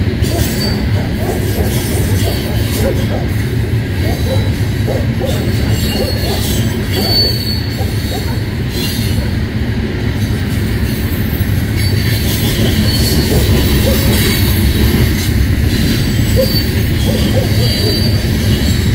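Freight train of tank cars rolling past: a loud, steady rumble and clatter of steel wheels on the rails that runs on without a break.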